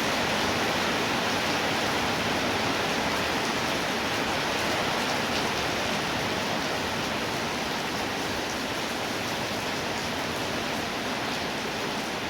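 Steady rainfall, a dense even hiss without distinct drops or pauses.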